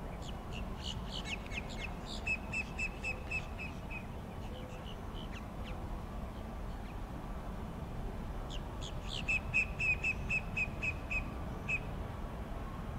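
A songbird singing two phrases, each a few high chirps followed by a quick run of repeated notes, about five a second. A steady low rumble sits underneath.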